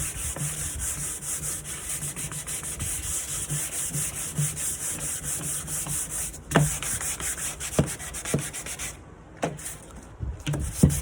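Sandpaper rubbed back and forth over the wooden surface of a nightstand, a steady scratchy sanding that stops briefly about six seconds in, then stops about nine seconds in, followed by a few light knocks.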